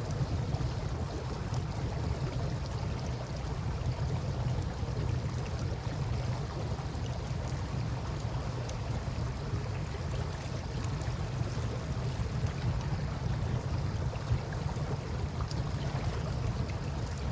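Steady rush of river water with a low rumble, and a campfire crackling faintly over it in scattered small pops.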